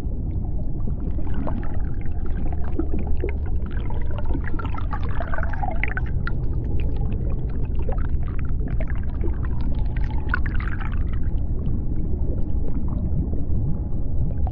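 Underwater ambience: a steady deep rumble with scattered sharp clicks throughout. From about a second in until about eleven seconds, wavering, gliding calls rise and fall in the middle range above the rumble.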